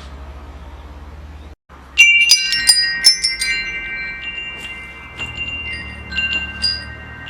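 Metal wind chimes ringing: a cluster of strikes about two seconds in, after a brief dropout, leaves several tubes ringing on, with a few lighter strikes later.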